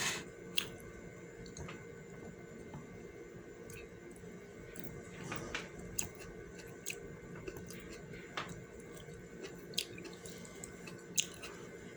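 Wet chewing and lip-smacking of a person eating close to the microphone, with scattered sharp clicks, over a faint steady hum.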